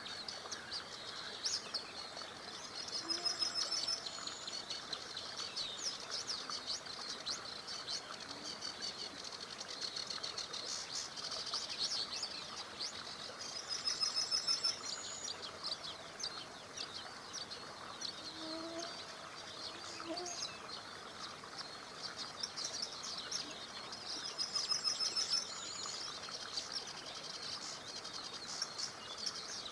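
Many small birds chirping and singing together over a steady murmur of a small river. A fast, high trill repeats three times, about ten seconds apart.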